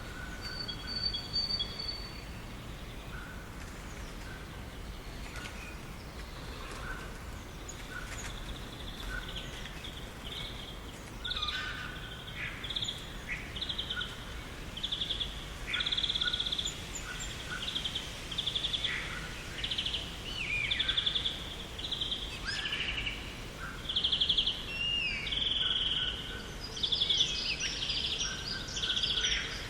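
Garden birds singing and chirping over a steady low background noise. From about a third of the way in, one bird repeats a short trilled note roughly once a second, with other chirps and calls among it.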